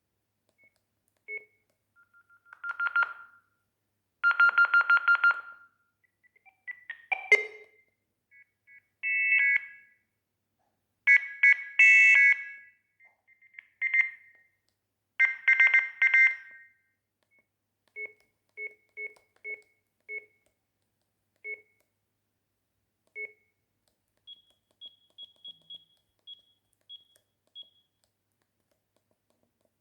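Sagem myX-1 Twin mobile phone playing its built-in tones: a string of short electronic beep melodies, each about a second long, then single short beeps spaced about a second or two apart, and near the end a quick run of higher beeps.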